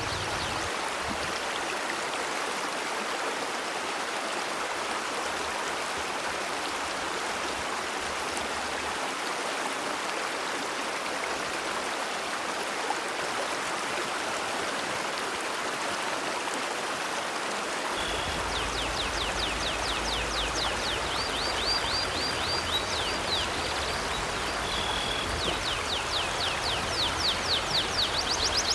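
River water flowing steadily, a constant rushing. From about two-thirds of the way in, a bird chirps over it in quick runs of high notes.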